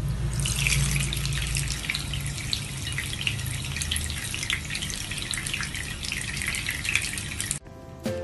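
Running, splashing water, a steady crackly rush over a low hum. It cuts off near the end, where plucked-note music begins.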